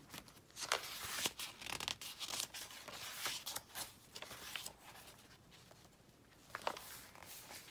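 Paper pages and tags of a handmade junk journal being handled and turned: rustling with small taps and clicks, busiest in the first half, quieter in the middle, with a few sharp ticks near the end.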